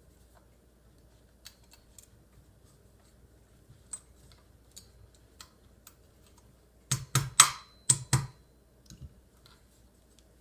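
Light clicks and taps of small metal hardware (pin, washers, Chicago screws) being handled against a shotgun's receiver while a shell carrier is fitted, with a quick cluster of about five sharper clicks around seven to eight seconds in.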